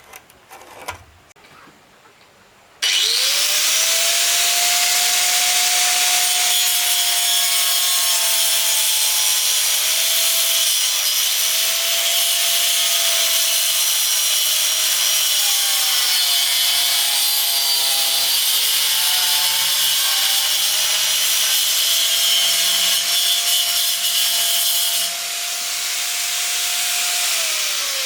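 Handheld electric power saw cutting wood. After a few light knocks, the motor starts about three seconds in with a rising whine and cuts steadily, its pitch wavering midway. Near the end it winds down with a falling whine.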